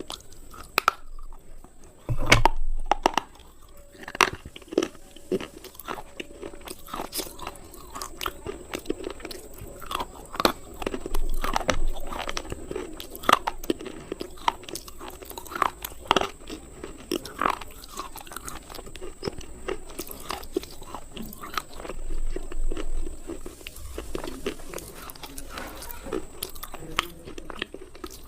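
Slate pencils being bitten and chewed: a run of sharp, irregular crunches and snaps, with a louder bite about two seconds in and another after about twenty seconds.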